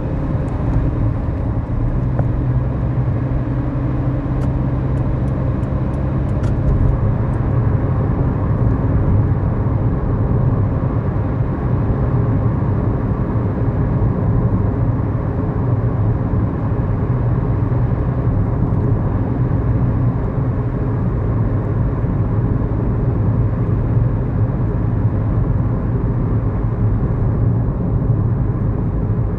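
Inside the cabin of a 2011 Kia New Morning: its 999 cc four-cylinder engine runs steadily under way, with a constant engine hum over tyre and road noise.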